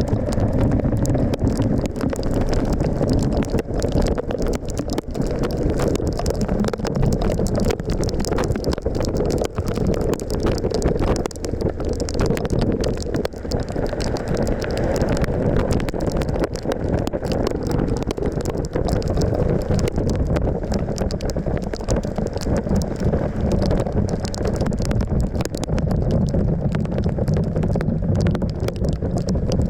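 Suzuki V-Strom 1050XT's V-twin engine running steadily while riding, with wind buffeting the microphone.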